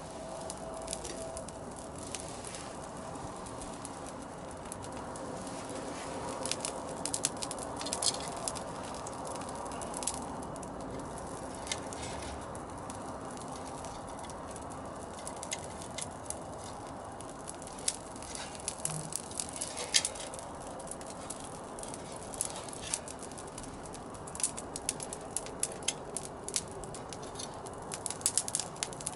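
Squid grilling in a cast-iron skillet over a wood fire: a steady sizzle broken by frequent sharp pops and crackles, busiest about a third of the way in and again near the end.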